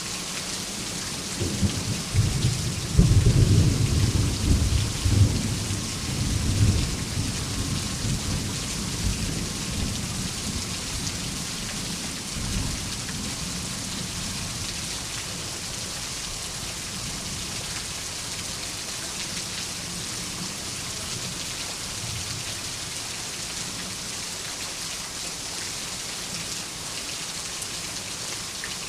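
Steady rain falling, with a roll of thunder that starts about a second and a half in, rumbles loudest over the next few seconds with several peaks, and dies away over about ten seconds, leaving the rain alone.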